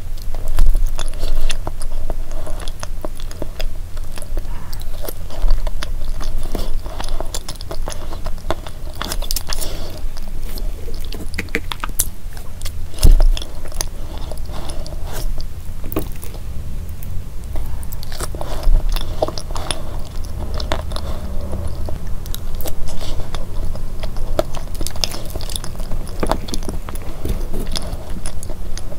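Close-miked chewing and wet mouth sounds of a person eating a soft layered chocolate dessert, with small crunches and clicks throughout. There is one sharp knock about halfway through.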